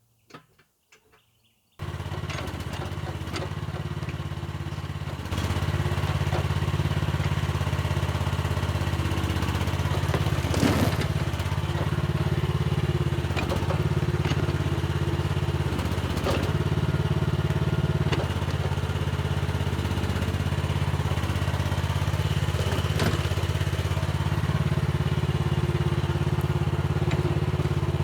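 Mini excavator's diesel engine running steadily, coming in suddenly after a couple of near-silent seconds and rising to higher revs about five seconds in, with occasional metal clanks from the machine working.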